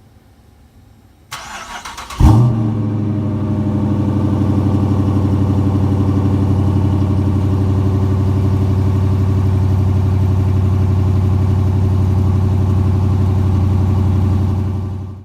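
Dodge Charger R/T's 5.7-litre Hemi V8 with a 2.5-inch Dynomax catback exhaust being started: the starter cranks for about a second, the engine catches with a loud flare, then settles into a steady deep idle rumble that cuts off suddenly near the end.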